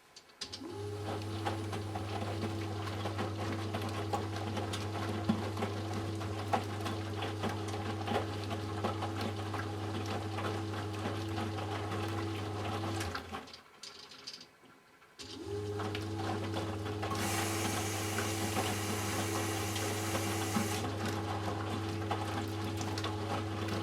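Eudora Sparmeister 702 washing machine's motor running with a steady hum, drum turning. It winds up, stops about 13 seconds in, and starts again after a two-second pause, as the drum reverses during the wash programme. A rushing hiss of water joins for about four seconds in the second half.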